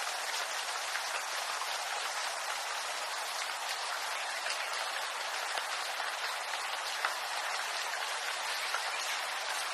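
Steady rain falling on bamboo, an even hiss of drops with scattered small pattering ticks.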